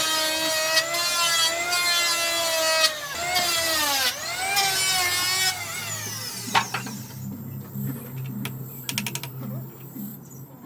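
High-pitched whine of a handheld electric power tool's motor running on wood, its pitch dipping briefly under load a few times before it stops about halfway through. A quieter low hum and a few light clicks follow.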